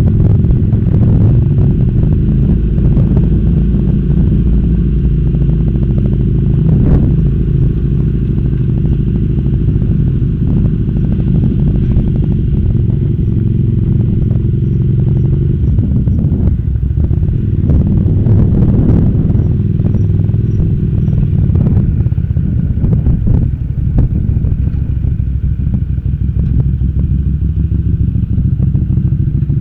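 Motorcycle engine running as the bike is ridden slowly, its note rising and falling a few times with the throttle, then settling to a steady idle near the end as the bike stops.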